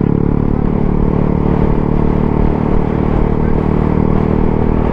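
125cc single-cylinder motorcycle engine idling steadily.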